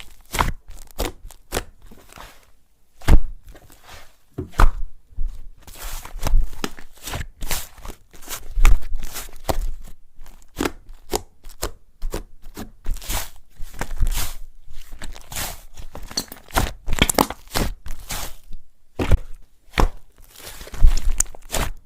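Hands kneading, stretching and pressing slime, making irregular squishes, pops and crackles several times a second.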